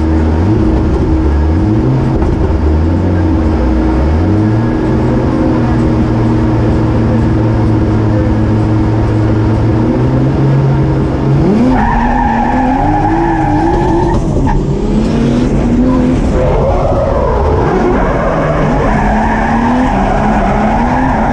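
Nissan 200SX S14.5's swapped Toyota 2JZ straight-six, heard from inside the cabin on a drift run: the revs climb and then hold steady. From about halfway they jump and keep rising and falling with the throttle while the tyres squeal.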